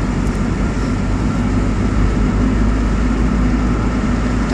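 In-cabin sound of a car cruising at a steady 40 mph or so, its Honda D16Z6 1.6-litre SOHC VTEC four-cylinder turning a little under 2,000 rpm: a steady, even engine drone mixed with road and tyre noise.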